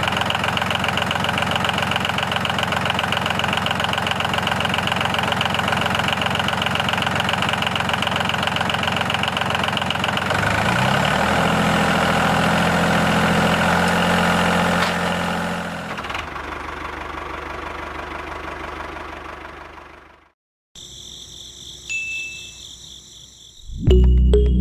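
An engine-like motor hum running steadily, shifting pitch about ten seconds in, then fading out and cutting off after about twenty seconds.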